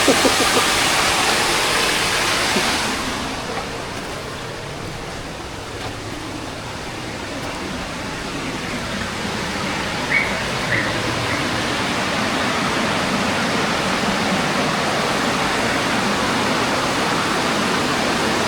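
Steady rushing of waterfall water. It is loudest and hissiest for the first three seconds, then drops and slowly builds again. A few short high chirps come about ten seconds in.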